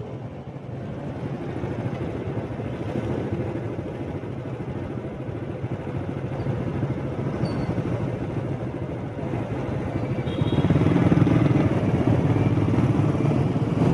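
Steady running hum of a motorbike being ridden through city traffic, with road and wind noise; it grows louder about ten and a half seconds in.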